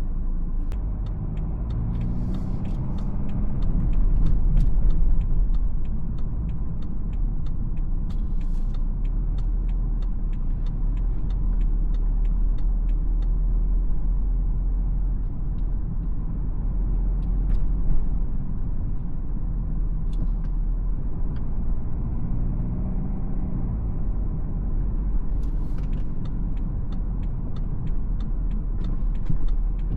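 2017 BMW X4 xDrive20d's 2.0-litre four-cylinder diesel engine and road noise as the car drives in city traffic: a steady low rumble. The engine note rises as the car accelerates about two seconds in and again past the twenty-second mark. Scattered light clicks and a few brief hisses can be heard.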